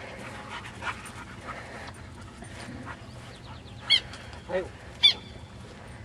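Birds giving loud, sharp high-pitched calls, twice in the second half, while a Labrador panting and nosing through the grass is heard underneath.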